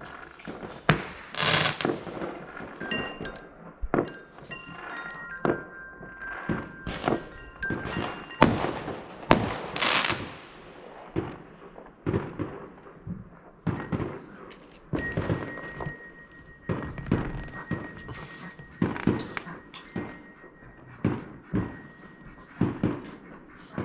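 Fireworks going off: many sharp bangs and pops at irregular intervals, with a couple of longer rushing hisses and a thin steady high-pitched tone in the second half.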